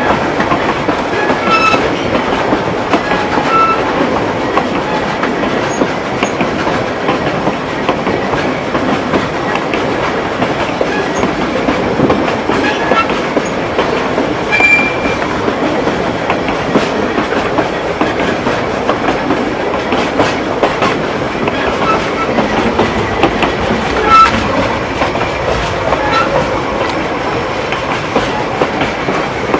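Cumbres & Toltec narrow-gauge passenger car running along the track, heard at an open coach window: a steady rumble of wheels on rail with clicks from the rail joints. Short high wheel squeaks come now and then, loudest about two seconds in, near the middle and about two thirds through.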